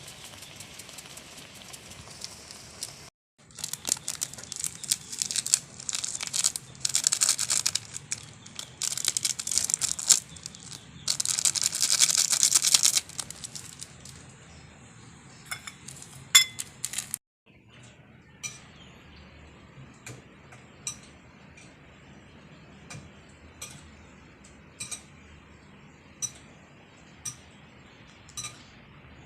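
Rain falling: a dense, crackling hiss that comes in loud patches for the first half, then a quieter steady patter. In the second half a short, sharp high sound repeats about once a second.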